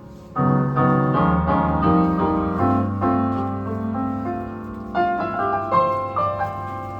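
Piano playing jazz chords over bass notes, coming in loudly about half a second in after a held chord dies away, with a run of higher notes about five seconds in.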